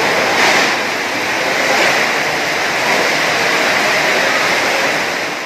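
Loud, steady roar of heavy rain driven by strong wind during a tropical storm.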